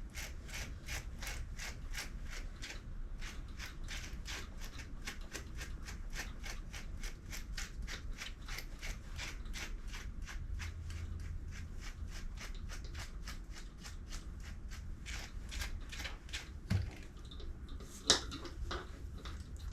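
A brush raking through a cavoodle puppy's coat in quick, even strokes, about three to four scratchy strokes a second, with one sharper knock near the end.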